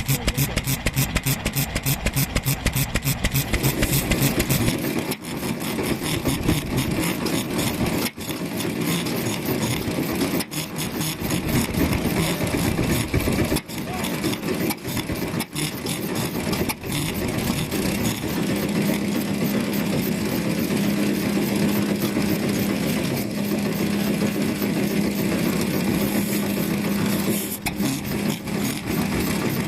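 Vintage single-cylinder stationary engines running. The first few seconds are a steady beat of about five firing strokes a second; after that comes a busier engine sound, with a steady hum joining a little past halfway.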